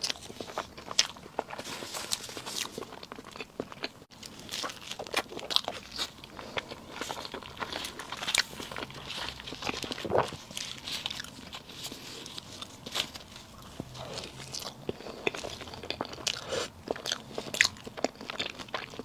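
Close-miked eating sounds: biting and chewing soft cake, with many sharp wet mouth clicks and smacks at an irregular pace.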